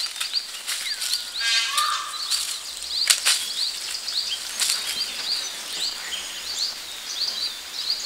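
Forest birds calling: many short, high chirps repeated quickly over and over, with a harsher, lower call about a second and a half in and a few sharp clicks scattered through.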